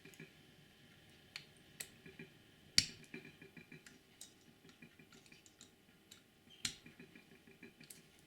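Small screwdriver tightening the tiny chassis screws on a model locomotive: scattered light clicks and ticks of the tool on the screws and casing, a few sharper clicks, the loudest about three seconds in.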